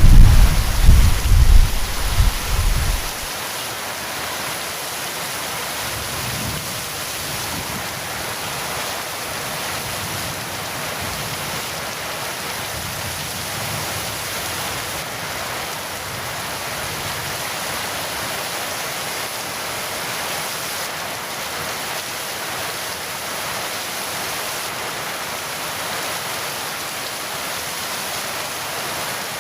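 A rumble of thunder dies away in the first three seconds, then heavy rain falls steadily.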